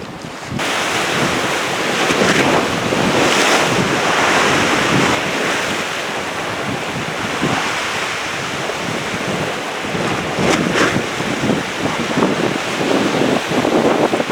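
Sea waves washing on a shore, with wind buffeting the microphone.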